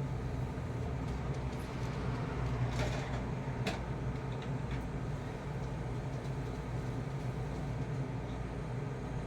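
Refrigerator running with a steady low hum, with a couple of brief knocks of frozen packages being handled about three to four seconds in.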